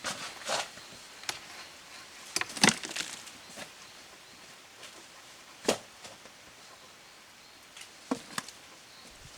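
Irregular sharp knocks, like chopping strikes, spaced unevenly, with a quick cluster of several about two and a half seconds in.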